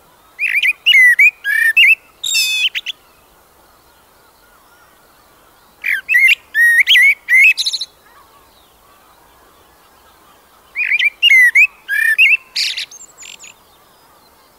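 A bird singing: three short phrases of quick chirping notes, each about two to three seconds long, with pauses of a few seconds between them.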